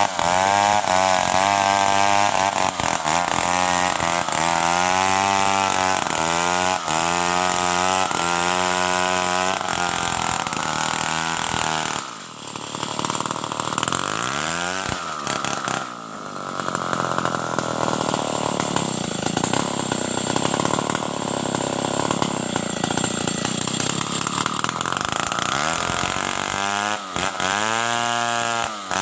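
Stihl 070 two-stroke chainsaw running and cutting wood, its engine pitch wavering under load. The level dips briefly about twelve and again about sixteen seconds in, and the wavering pitch returns near the end.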